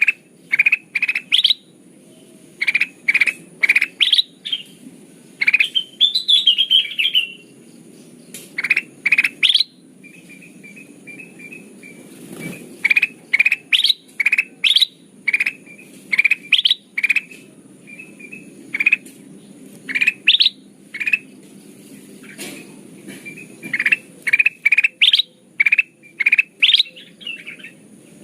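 Kutilang emas bulbul calling: loud, short, sharply rising whistled notes repeated in quick clusters of several a second, broken by a brief warbling trill about six seconds in and softer chattering runs. A faint steady high-pitched hum sits beneath.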